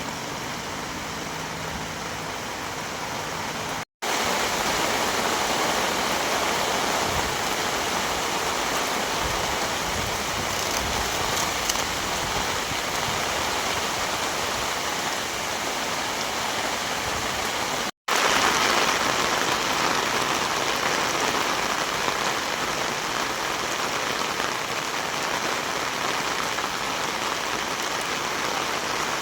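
Heavy rain falling steadily, a dense, even hiss that cuts out for an instant twice, about four seconds in and again near the middle.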